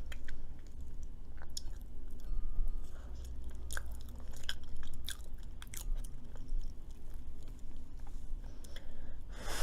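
Close-miked chewing of food, with scattered small crunches and mouth clicks, then a short breathy noise near the end.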